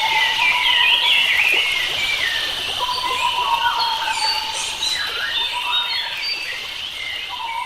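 Several wild birds singing and chirping over one another in a dense forest chorus, with one long held whistle-like note that breaks off and returns, over a steady hiss.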